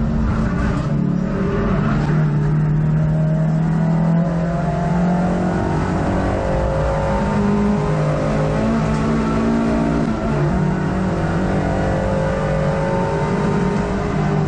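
Hot hatch race car's engine heard from inside the cabin while racing, revs rising and falling as the driver works through the gears, with tyre and road noise underneath.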